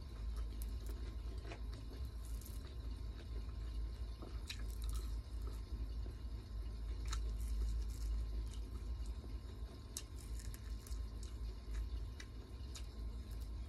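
Close-miked chewing and biting of food: wet squishy chews with scattered crisp crunches and clicks, over a steady low hum.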